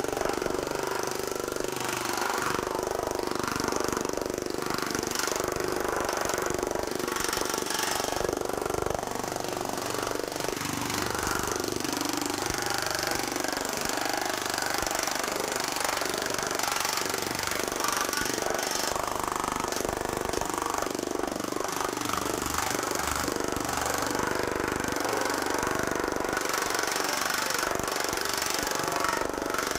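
TM Technologies pneumatic power hammer with a shrinking die, hammering 20-gauge hot-rolled steel in a steady, rapid stream of blows. It is shrinking a high-crowned panel back down flat.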